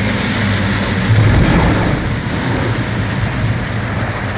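Vehicle on the move: a steady low engine hum under a hiss of rain and wind-and-road noise, swelling briefly about a second in.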